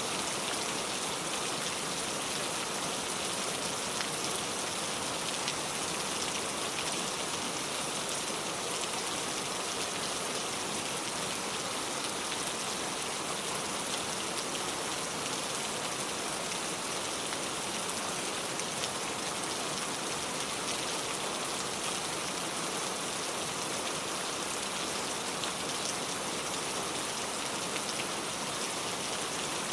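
Steady rain, with a dense, even hiss of falling water and many fine drops pattering.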